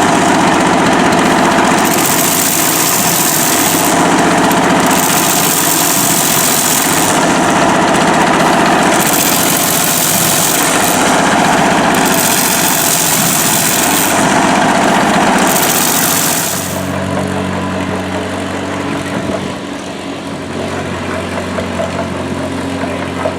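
Antique engines running, with a loud hiss that repeats about every two seconds. About 17 seconds in, this changes abruptly to a quieter, steadier engine beat.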